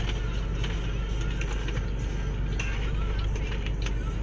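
Steady low rumble of an idling car engine, with a faint hiss over it and a few light clicks.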